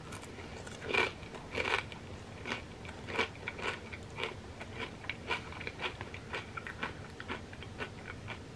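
A person chewing a crisp fried wonton chip with dip: a run of crunches, two louder ones about a second in, then many quicker, softer ones.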